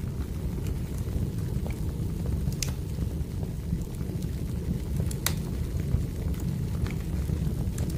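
Wood fire burning: a steady low rumble with scattered sharp crackles and pops, the loudest pop about five seconds in.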